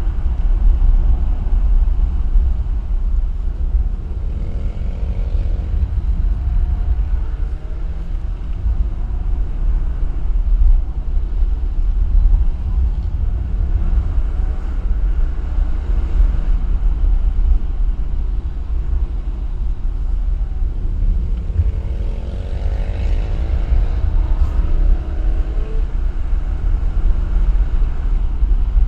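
Engine and road noise from a vehicle driving a winding road, over a deep, steady rumble. Engine pitch rises and falls a few times, most clearly around five seconds in and again from about 22 to 25 seconds in.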